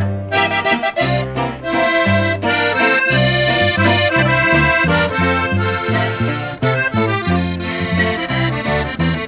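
Norteño music: a button accordion plays the melody over a bass line, with no singing. This is an instrumental introduction.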